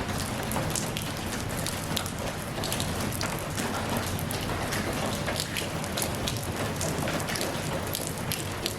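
Steady rain falling, with many distinct drops pattering on a hard surface over the continuous hiss.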